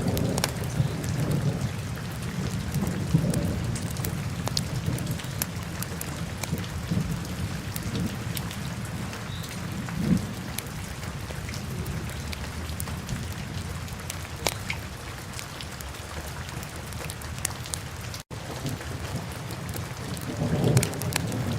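Wood fire burning in a fireplace: a steady low rumble of flame with scattered sharp crackles and pops. The sound cuts out for an instant near the end.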